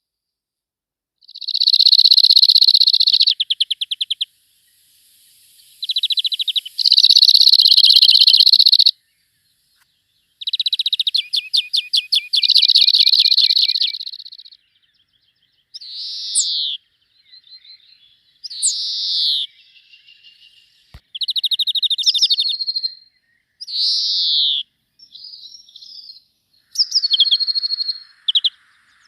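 Small songbirds singing: long, rapid trills of repeated notes, then shorter phrases with down-slurred whistles, separated by short pauses.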